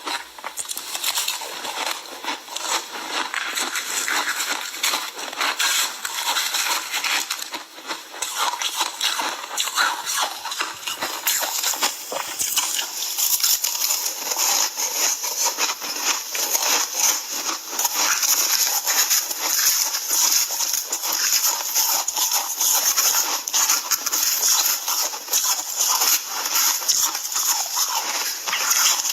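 Ice being chewed and crunched close to the microphone: a steady run of crackling crunches that grows brighter and sharper about halfway through.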